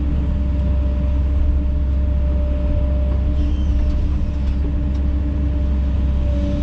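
Kobelco SK210 excavator's diesel engine running at a steady speed: a constant low rumble with a steady hum.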